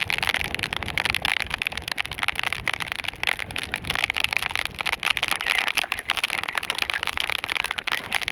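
Heavy tropical rain pouring steadily, a dense crackling patter of drops.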